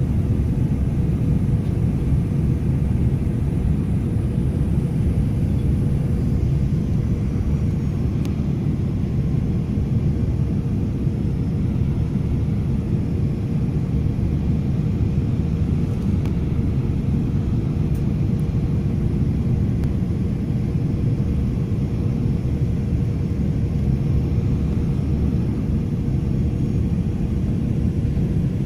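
Airliner cabin noise: a steady, loud rumble of engines and airflow with a faint steady hum above it.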